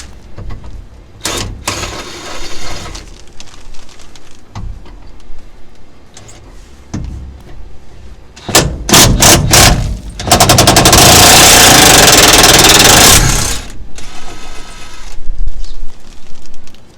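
Impact wrench hammering on bolts while the front fuel tank is being dropped: a few short bursts, a quick string of four about halfway through, then one long, loud run of about three seconds, followed by shorter bursts.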